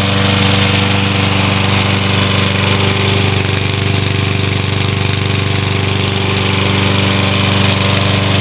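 Toro Recycler walk-behind lawn mower's Kohler 6.75 gross-torque 149 cc overhead-valve engine running steadily at an even speed.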